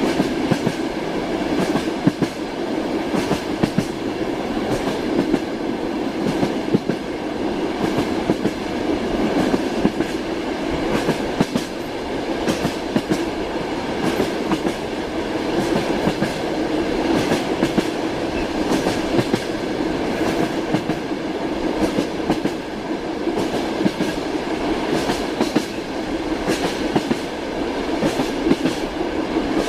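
Train running along the line: a steady rolling rumble with the wheels clattering over rail joints in frequent sharp clicks.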